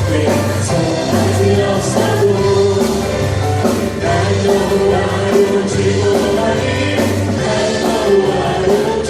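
A praise team singing a worship song with a band, over a steady beat.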